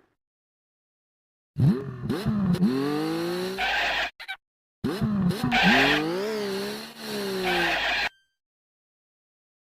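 Cartoon sound effects: squealing tones that slide up and down in pitch, in two runs of about two and a half and three seconds with a short break between them.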